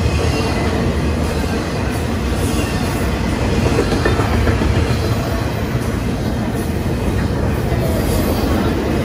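Double-stack intermodal freight train's well cars rolling past at close range: a steady, loud rumble of steel wheels on the rails.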